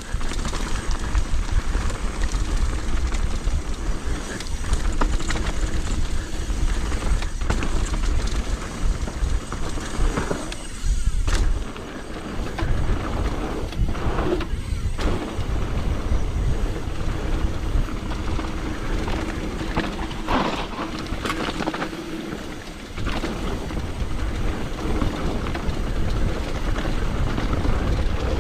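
Mountain bike descending a wet trail: wind rumble on the microphone and tyres on dirt, with clatter and knocks from the bike over bumps.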